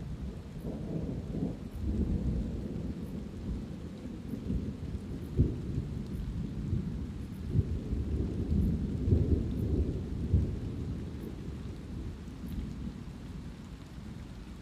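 Thunder rumbling low and long over light rain, with several sharper cracks in the middle before the rumble dies away near the end.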